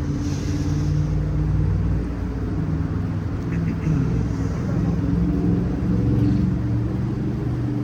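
A car engine running steadily, a low hum with a few faint higher ticks.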